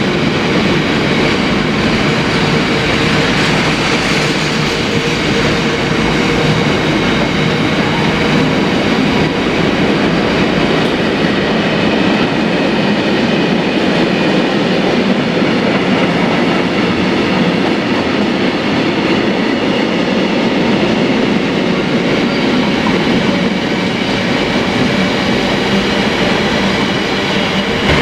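A train running through, with steady wheel-on-rail noise that holds even and unbroken.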